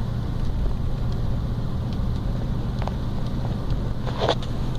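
Steady low rumble of a car driving, heard from inside the cabin, with a short rustle about four seconds in.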